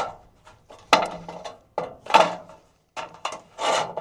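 Thin aluminium sheet being folded and handled for a door sill pan, giving a few short, irregular metallic rattles.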